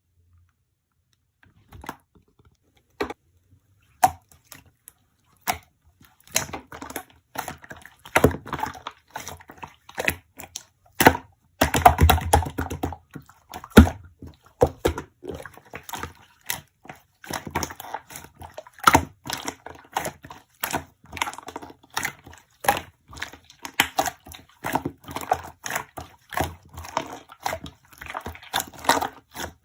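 Slime being handled, giving irregular clicks and pops: a few scattered clicks at first, then a dense, crackling run from about six seconds in, loudest near the middle.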